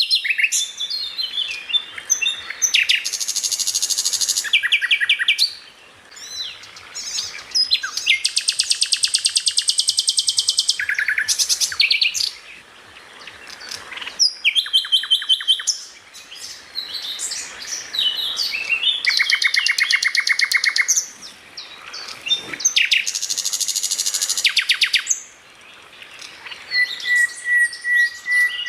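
Songbird singing loud, fast trilling phrases of rapidly repeated high notes, each a few seconds long with short pauses between, and a steady whistled note near the end.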